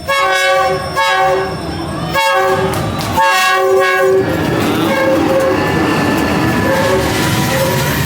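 Train horn blowing about four blasts of roughly a second each, then the rumble and clatter of the train rolling past close by.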